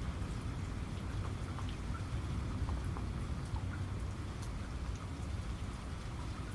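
Steady rain, with many small sharp drop ticks over a low, continuous rumble.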